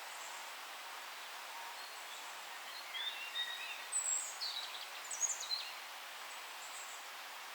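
Forest ambience: a steady hiss of background noise, with a short run of bird song, quick high chirps and whistles, from about three to five and a half seconds in.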